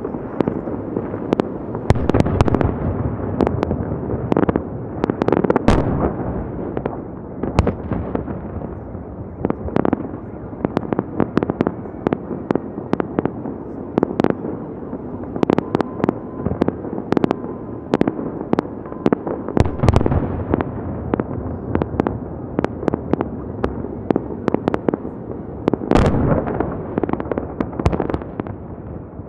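Fireworks salute: a dense run of shell bursts and sharp crackling over a continuous rumble, with heavier booms about 2, 5.5, 20 and 26 seconds in.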